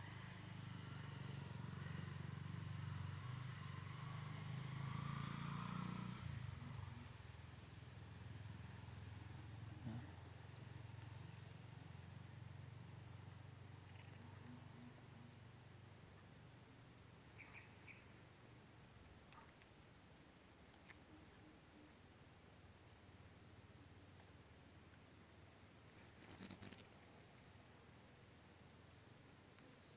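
Faint chorus of insects: a steady high-pitched trill with softer pulsing calls beneath it. A low rumble is loudest for the first six seconds or so and fades out about seven seconds in.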